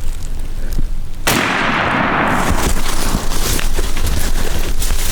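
A single turkey-hunting shotgun shot about a second in, with a long ringing tail, followed by a few seconds of loud rustling and knocks.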